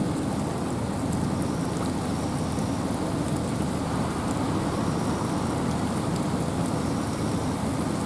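Steady rain falling through forest trees, with wind, making a continuous even noise.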